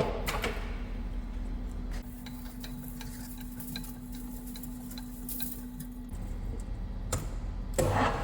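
Workshop handling sounds: a sharp metal knock at the start, scattered light ticks, and two more knocks near the end, over a steady machine hum that drops away about six seconds in.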